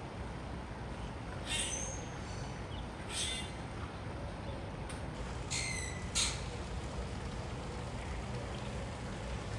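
Three or four short bird calls, each under half a second, over a steady low rumble.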